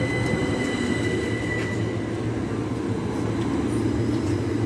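Class 377 Electrostar electric multiple unit running past, a steady rumble under a thin high whine.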